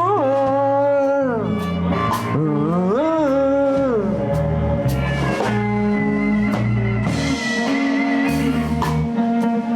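Live blues band playing an instrumental passage between vocal lines: electric guitar, bass and drums, with a lead line bending its notes early on and a held high note about six seconds in.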